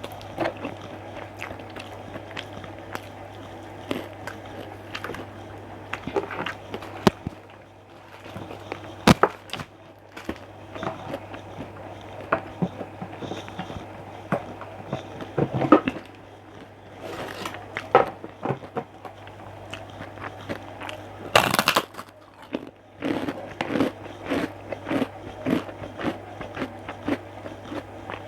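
Close-miked eating sounds: biting, chewing and crunching of food, with many small clicks and crackles and one louder crunch about 21 seconds in. A steady low hum runs underneath.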